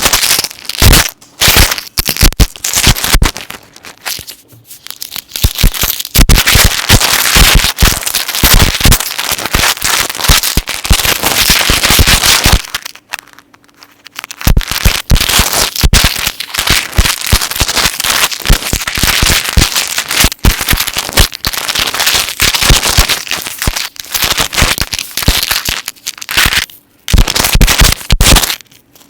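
Metal necklace chains handled close to the microphone, clinking and jingling in dense, continuous runs of small clicks. There are brief pauses about four, thirteen and twenty-seven seconds in.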